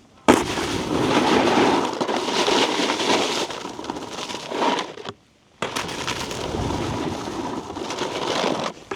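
Snowboard base and edges scraping and chattering over icy, hard-packed snow. About five seconds in the sound cuts out for half a second, then comes back with a sharp hit as the board lands and scrapes on.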